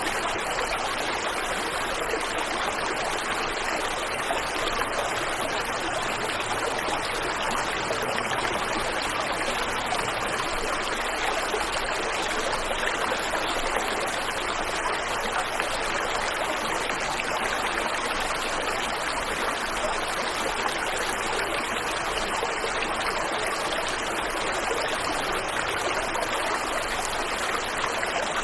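Waterfall and river water rushing in a steady, unbroken wash of sound with no let-up.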